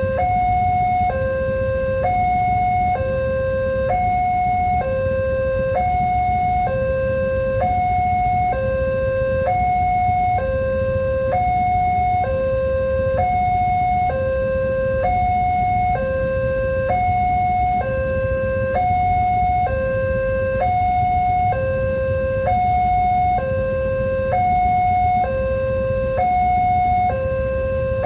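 Electronic two-tone warning alarm of a railway level crossing, alternating between a lower and a higher tone about once a second, steadily, over a continuous low rumble.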